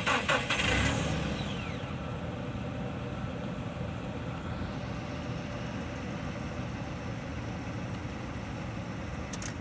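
A vehicle engine idling steadily, after a brief loud rush of noise in the first second.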